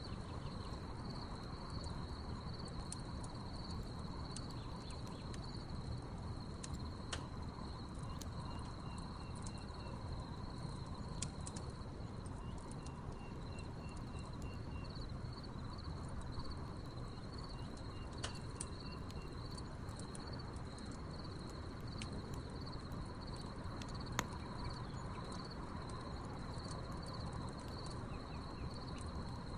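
Wood fire crackling, with scattered sharp pops, over a steady chorus of crickets chirping. A few short rapid chirp series sound now and then.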